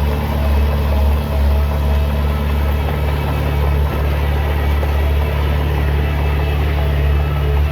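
Diesel engine of a heavy earthmoving machine running steadily with a deep, even drone.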